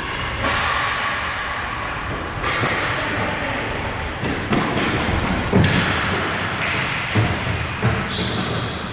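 Rec-league hockey game play in an echoing arena: a steady din with several sharp thuds and knocks, from the ball or puck and sticks hitting the boards, and a couple of short high squeaks.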